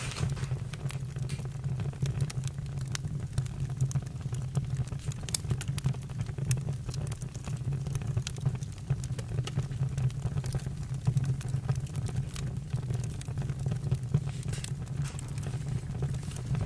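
Campfire crackling: many small sharp pops and snaps at irregular moments over a steady low rumble from the fire.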